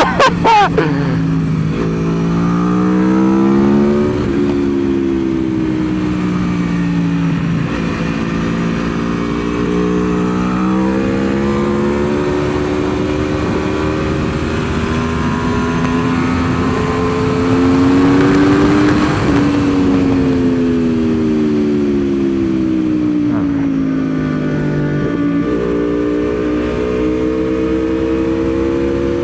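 Aprilia Tuono V4's V4 engine under way on track, its pitch climbing and dropping with throttle and gear changes, then falling for several seconds and jumping back up near the end, with steady wind rush.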